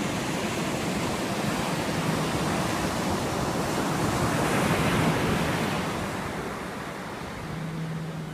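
Ocean surf washing onto the shore, a wave building and then receding about two-thirds of the way through, with wind on the microphone.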